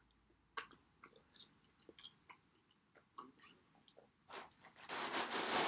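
Close-up mouth sounds of pizza being chewed: faint, scattered wet clicks and smacks. Near the end comes a louder rustling noise as hands work at the slice in its cardboard box.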